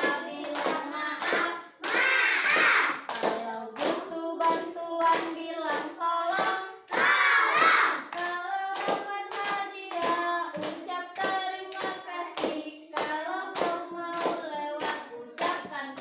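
Voices singing a simple children's song about saying sorry, kept in time by steady hand claps about twice a second.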